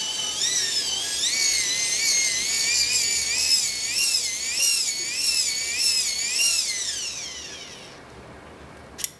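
Microwave turntable synchronous motor whining at high pitch as its geared shaft is hand-cranked fast to generate AC. The pitch swings up and down with each turn of the crank, a little under twice a second. The whine dies away as the cranking stops, and a click follows near the end.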